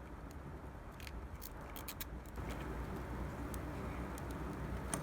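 Steady low rumble with a few light clicks, about a second and two seconds in, from small parts being handled.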